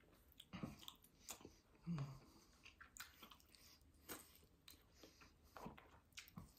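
Faint chewing and biting on a small sauced chicken wing flat, with scattered mouth clicks and a low thump about two seconds in.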